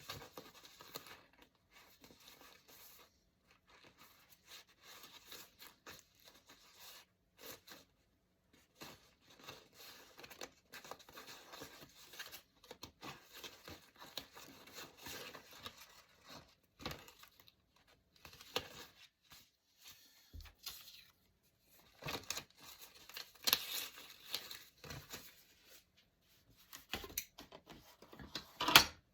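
Paper being torn and rustled at close range while a journal page is made, in irregular strokes that grow louder in the last few seconds.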